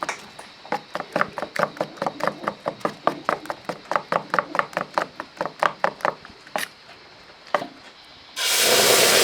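Quick rhythmic tapping in a kitchen, about four to five knocks a second, which stops about six seconds in and is followed by two single knocks. About eight seconds in, a loud sizzle starts as flour batter goes into hot oil to fry.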